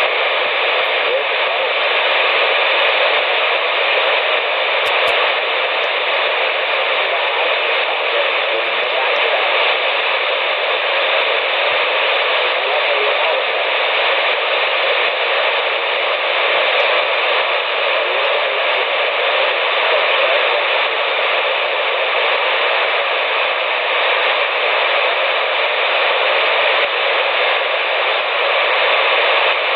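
CB radio receiver hissing steadily with static on an open sideband channel, with no transmission coming through: an even, thin band of noise with no low end and nothing above the radio's voice band.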